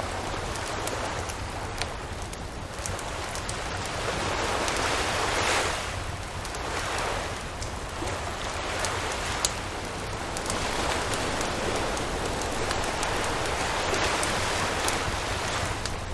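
Waves washing on a beach, the noise swelling and easing every few seconds, with a campfire crackling over it in scattered sharp pops. One pop stands out loudest about halfway through.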